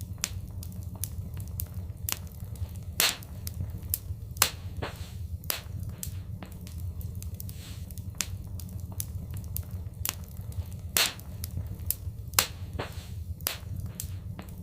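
Wood fire crackling in a fireplace: irregular sharp snaps and pops, a few of them louder, over a steady low rumble.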